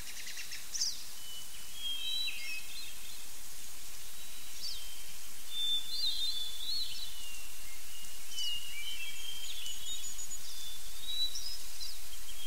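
Small birds chirping and whistling in short calls every second or two, some sliding down in pitch, over a steady outdoor hiss that slowly grows louder.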